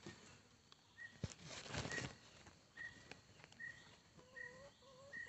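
A bird repeating a short high chirp about once a second, with a lower rising call twice about four seconds in. Over it, leaves of a potato plant rustle as a hand pushes them aside, loudest a second or two in.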